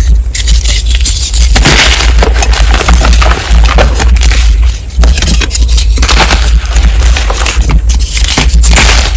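Dyed gym chalk blocks being crushed, a dense run of crunching and crumbling with many quick crackles, over a steady low rumble.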